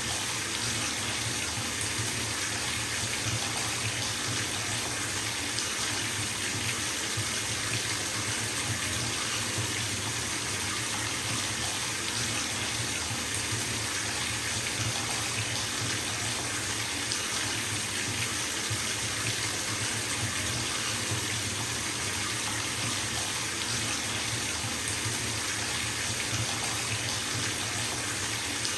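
Bathtub tap running steadily, its water stream splashing into the tub as it fills.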